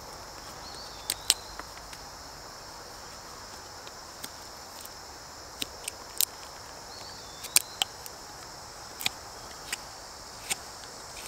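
Crickets and other insects chirring steadily and high-pitched, with about a dozen sharp, irregularly spaced clicks over it.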